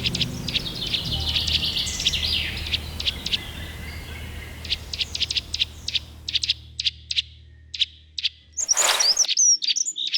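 Songbirds chirping in quick series of short calls over a low, steady music drone that stops near the end; a brief rushing burst follows, then denser chirping.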